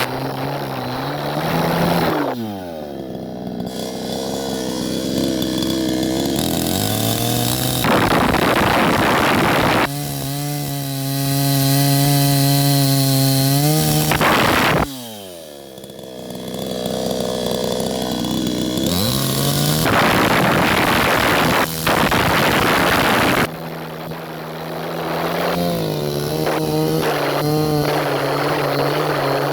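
Chainsaw cutting wood in repeated stretches. The engine revs high through each cut, then its pitch falls away toward idle and climbs again for the next cut. Some changes are sudden.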